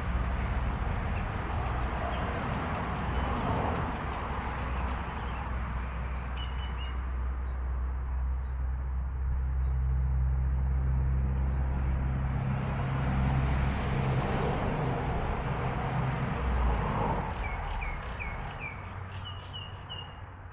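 Small birds chirping, short high notes repeated every second or so, over a steady low rumble and background noise. The rumble eases after about twelve seconds, and a quicker run of lower chirps comes near the end.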